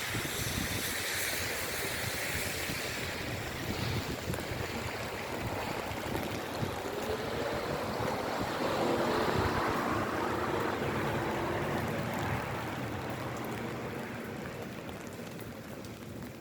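Steady rain falling, with a vehicle passing on the wet road that grows louder toward the middle and then fades away.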